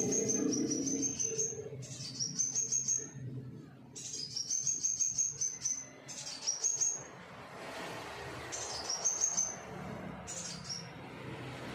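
Scarlet minivet song: about six phrases of quick, high, thin notes, each phrase stepping up in pitch and then holding level, with short pauses between the phrases.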